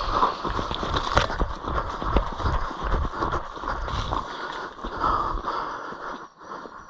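Someone moving on foot through wet cane and mud: irregular footfalls, rustling and low thumps, quieter near the end.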